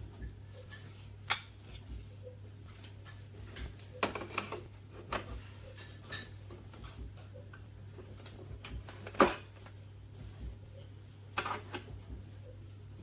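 A handful of scattered clicks and knocks of hard objects being handled and set down, the loudest about nine seconds in, over a steady low hum.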